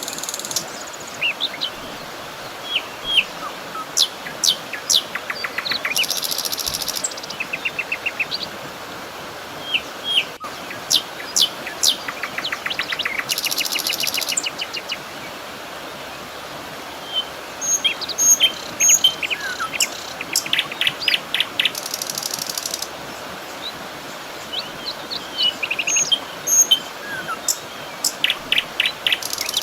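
Several songbirds chirping, with quick repeated trills and short rising notes over a steady background hiss. A high, hissing buzz about a second long comes back about every seven to eight seconds.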